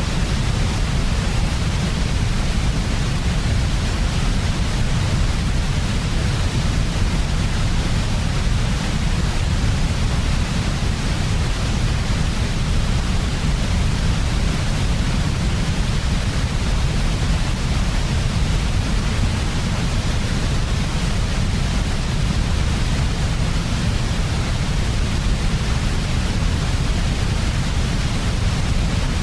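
Steady, unchanging white noise for baby sleep, with a strong low rumble under a fainter even hiss.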